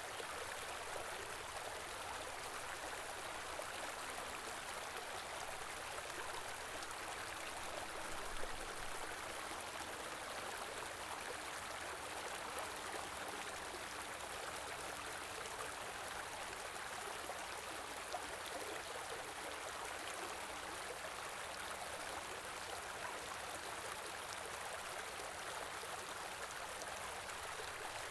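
A small river or stream flowing steadily over rocks: continuous rushing and babbling water, with a slightly louder splash about eight seconds in.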